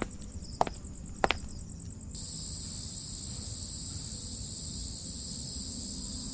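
Night insects: a cricket's fast high trill with a few sharp clicks in the first two seconds, then a louder, steady, high-pitched insect chorus takes over abruptly about two seconds in.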